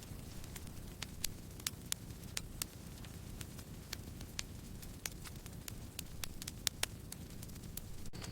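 Campfire burning: a steady low rumble of the flames with irregular sharp crackles and pops of burning wood, a few louder snaps among them. The sound drops out for an instant just before the end.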